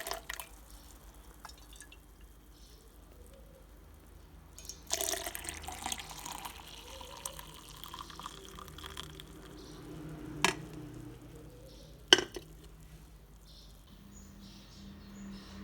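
Water running for a few seconds, starting about five seconds in and tailing off, followed by two sharp knocks; the second knock is the loudest sound.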